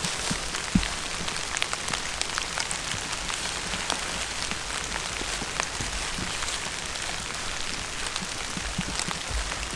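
Steady rain falling, with many separate drops ticking through a constant patter.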